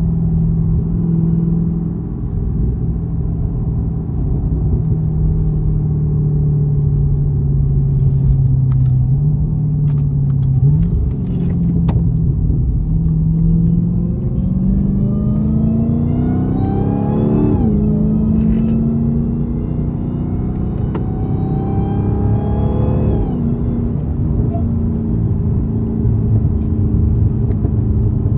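Dodge Charger Hellcat Redeye's supercharged 6.2-litre Hemi V8 running low and steady, then accelerating twice with its supercharger whine climbing in pitch. Each pull ends in a sharp drop in pitch, about halfway through and again near the end.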